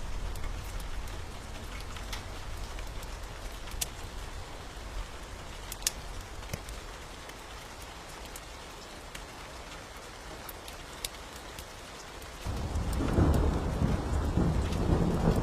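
Steady rain with a low thunder rumble that dies away, then a loud roll of thunder that breaks in suddenly near the end. Occasional sharp clicks are scattered throughout.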